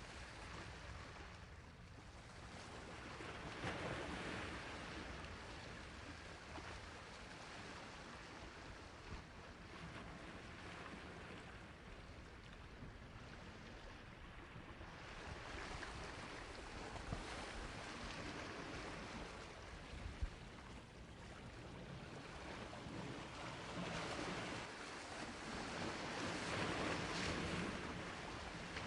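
Sea waves washing onto a shore, a steady rushing surge that swells and recedes every several seconds, with a few brief sharp splashes.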